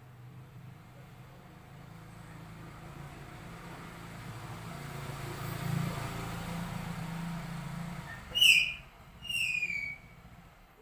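A low, steady vehicle-like rumble builds over several seconds and fades. Then a cat lets out two short, high-pitched cries of protest during claw trimming, the first the louder.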